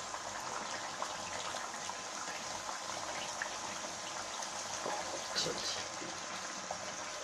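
Chicken pieces and masala sizzling and bubbling steadily in a frying pan on a gas flame, the frozen chicken letting out water as it thaws in the frying spice paste. A wooden spoon stirs through it with a few light scrapes, one a little louder about five and a half seconds in.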